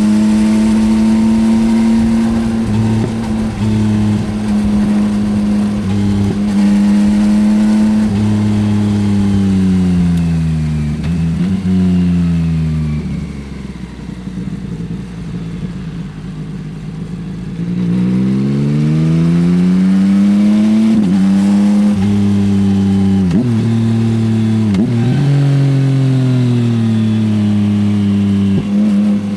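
Yamaha XSR900's inline three-cylinder engine through an Akrapovič exhaust, heard from the rider's seat. It holds steady revs, then the revs fall away and it goes quieter for a few seconds as the bike slows. It then accelerates hard again, the note climbing and breaking off at several quick upshifts.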